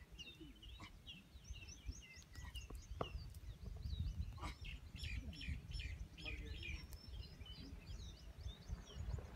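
Many small birds chirping and calling in quick, overlapping short notes over a low, steady background rumble, with a few sharp clicks.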